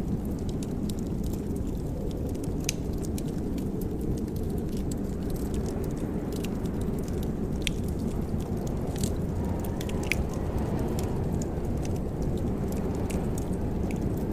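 Wood fire in a fireplace crackling: irregular sharp pops and snaps over a steady low rush of the flames.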